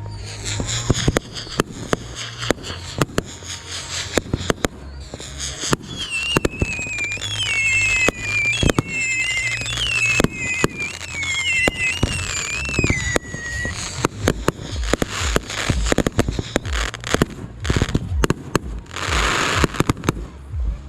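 Fireworks going off: a dense run of bangs and crackles, with a wavering whistle from whistling fireworks for several seconds in the middle and a short hiss near the end.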